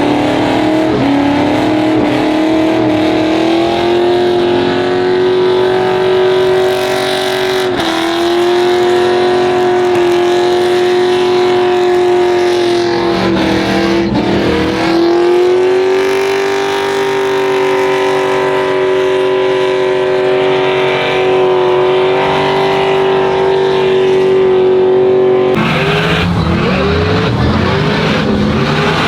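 A vehicle engine held at high revs on one steady high note for a burnout, with tyre noise. The note dips briefly twice. Near the end it breaks into quick repeated revs that rise and fall.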